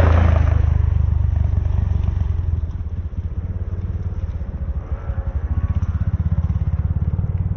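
Dirt bike engines: one revving loudly at first and fading away within about a second, then a low, steady, pulsing engine rumble.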